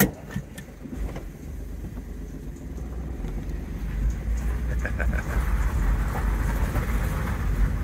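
Smart fortwo's small three-cylinder engine heard from inside the cabin as the car pulls away and speeds up, its low rumble building over the first few seconds. A sharp click right at the start as the parking brake is released.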